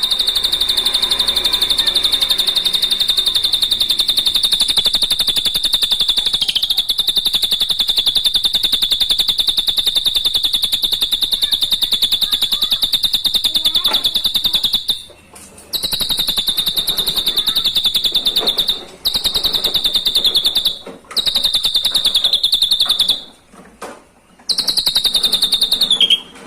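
Recorded drongo (srigunting) song: a high, very fast trill held on one pitch. It runs unbroken for about fifteen seconds, then continues in shorter stretches split by brief pauses.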